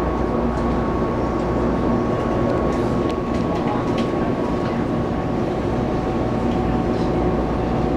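Taiwan Railways electric multiple-unit local train running along the line, heard from inside the carriage: a steady rumble of wheels on rail, with a few steady tones from the traction equipment. A further tone comes in about six seconds in.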